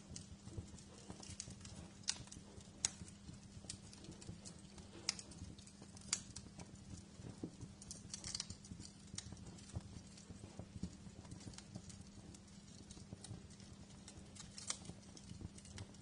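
Wood fire crackling in a fireplace, with irregular sharp pops and snaps, the loudest about 2, 3 and 6 seconds in, over a low steady hum.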